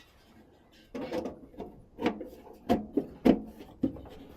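Furnace parts being handled: about five separate knocks and clunks over a few seconds, the loudest a little past the middle.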